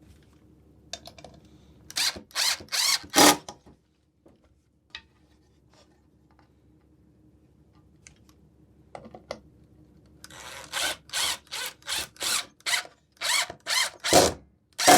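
Power drill driving screws into the wooden birdhouse, run in short trigger pulses: four quick pulses about two seconds in, then a longer string of about a dozen pulses from about ten seconds in to the end.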